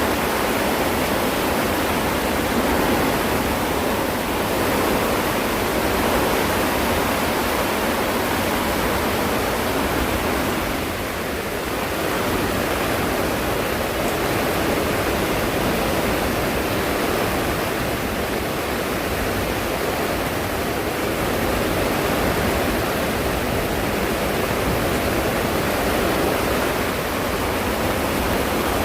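Heavy rain pouring steadily in a storm, an even, dense noise that dips briefly about eleven seconds in.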